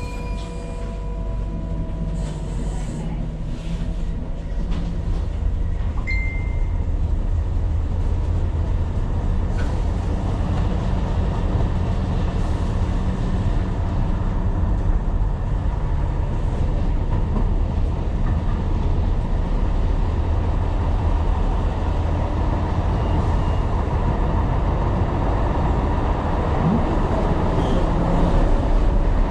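Tyne & Wear Metrocar running along the track: a steady rumble of wheels and running gear on the rails, growing gradually louder.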